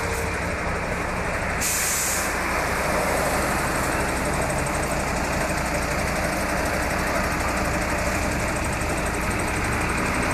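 Steady engine and road noise of a moving tour bus, heard from inside the cabin, with a short hiss about two seconds in.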